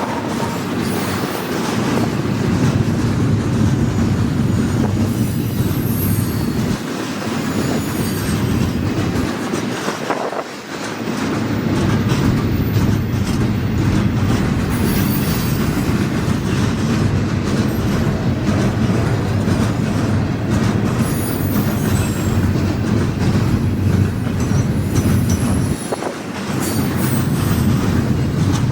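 Long intermodal freight train rolling past: steel wheels on the rail make a steady rumble, with brief dips in loudness a few times and faint high squeals now and then.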